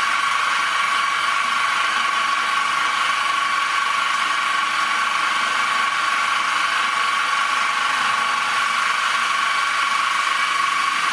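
Metalworking machine tool running steadily under power with a high, even whine as it takes the final cut.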